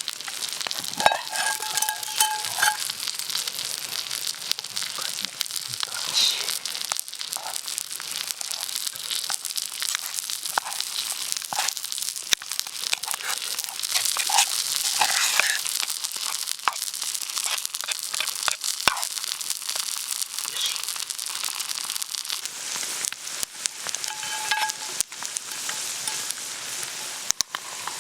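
Food frying in a pan: a steady sizzle with scattered pops and crackles.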